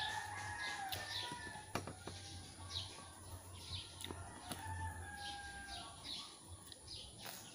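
Birds calling: two long, nearly level calls of about two seconds each, one at the start and one in the middle, over short high chirps that repeat roughly once a second.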